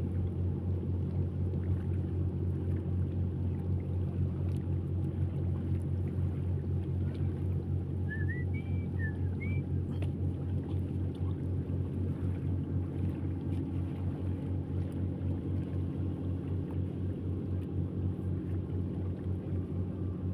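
An engine running steadily with a low, even drone. A few short high chirps sound about eight to nine and a half seconds in.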